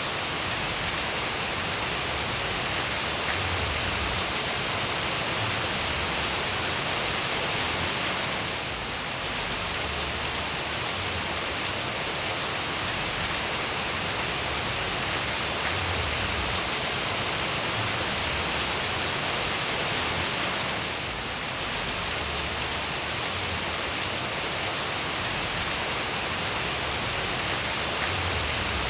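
Steady heavy rain falling, a dense even hiss of drops that dips briefly twice.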